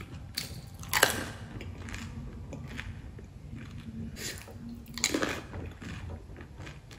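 Close-up eating sounds of someone biting into and chewing crisp, filled puri shells (pani puri), with sharper crunches about a second in and again around five seconds.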